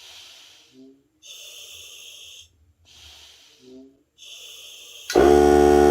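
A person breathing through a regulator fed by an air compressor, with two hissing inhalations and exhalations between them. About five seconds in, the Hart cordless air compressor's motor cuts in with a sudden loud, steady hum, as the breathing has drawn the tank pressure down.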